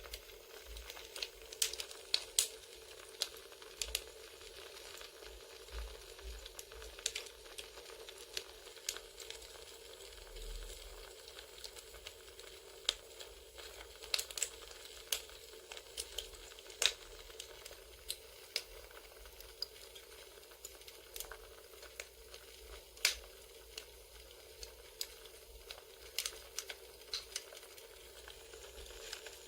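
Campfire crackling: irregular pops and snaps of varying loudness over a steady soft hiss.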